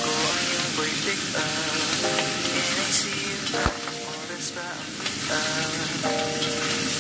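Pieces of fish sizzling as they fry in oil in a steel wok, with a metal spatula scraping the wok as it turns them. One sharp knock a little past halfway.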